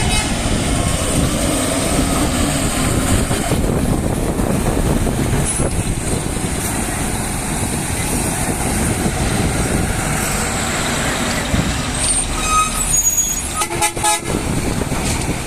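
Heavy truck and bus engines running as vehicles drive off a ferry onto the landing, with a steady low rumble. A horn toots near the end.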